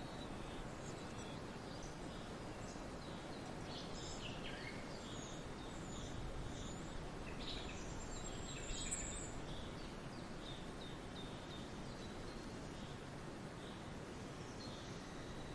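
Forest birdsong: several birds chirping in short, scattered high notes over a steady background hiss, with one brighter, higher call about nine seconds in.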